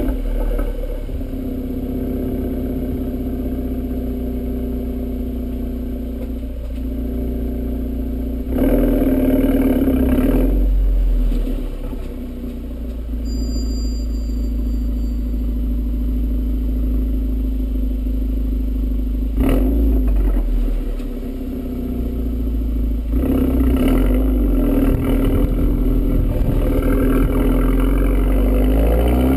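2011 Volkswagen GTI's turbocharged four-cylinder engine breathing through an APR turboback exhaust while driving, heard from a GoPro mounted on the car away from the exhaust tips. It runs steadily at low revs and gets louder under throttle about 9 seconds in, briefly near 20 seconds and again from about 23 seconds, with the pitch climbing near the end as it revs up.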